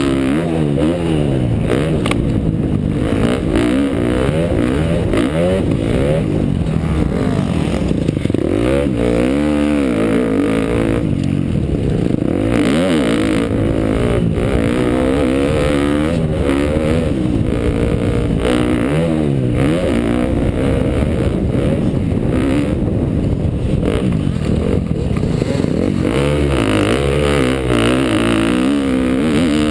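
2012 KTM motocross bike's engine revving up and falling back again and again as it is ridden round a dirt track, its pitch climbing and dropping every second or two.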